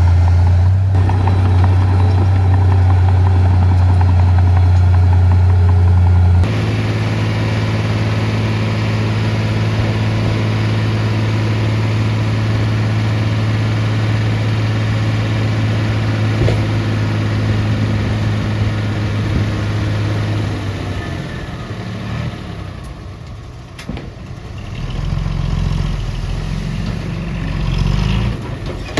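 Heavy diesel earthmoving machinery engine running steadily, with an abrupt change in the engine note about six seconds in. The engine eases off past twenty seconds, and a deeper rumble rises near the end.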